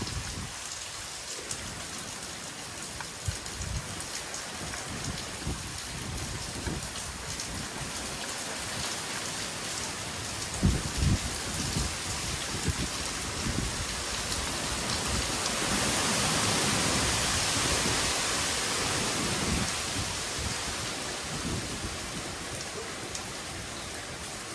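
Heavy tropical rain falling steadily, swelling louder for several seconds past the middle before easing back. Scattered low thuds under the rain, the strongest about ten seconds in.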